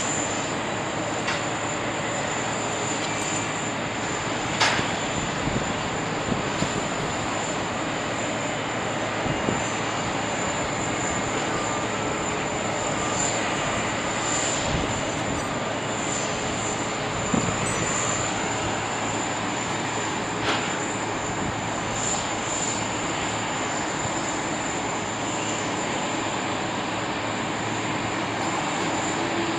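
Jet engines of an Emirates Airbus A380 running steadily: a constant roar with a steady high whine over it, broken by a few brief clicks.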